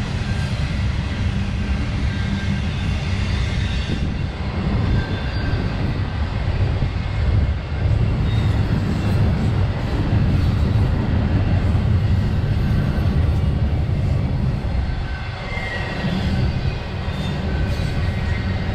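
Intermodal freight train rolling past, a steady low rumble of wheels and cars on the rails.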